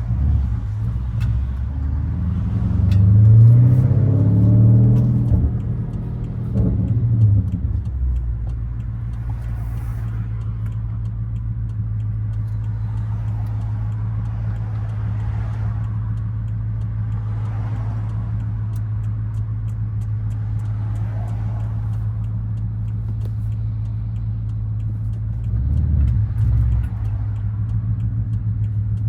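The 4.4-litre twin-turbo V8 of a 2013 BMW 550i, fitted with an H-pipe, catless downpipes and a muffler delete, drones steadily while cruising. A few seconds in, the revs climb and fall back, and there is a shorter rise near the end.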